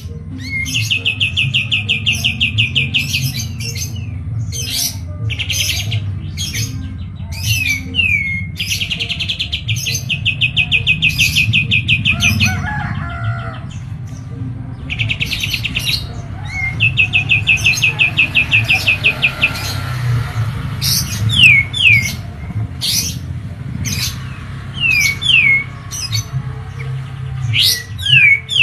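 Kapas tembak songbird singing: several long, fast rolling trills of a second or two each, mixed with short, sharp whistled notes that slide downward. A steady low hum runs underneath.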